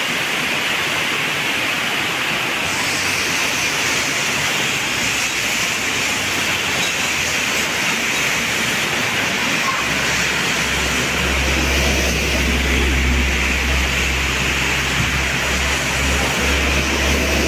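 Heavy tropical downpour, a steady loud hiss of rain on the roofs and the flooded road. From about ten seconds in, a heavy tanker truck's engine adds a low rumble as it drives through the water.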